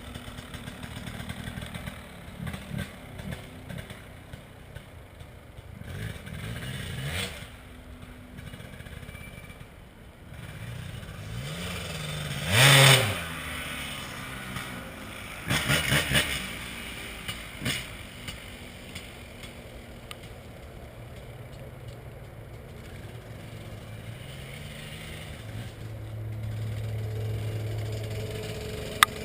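Dirt bike engine idling and revving, its pitch rising and falling, with one loud rev about thirteen seconds in and a few shorter blips just after. A sharp click near the end.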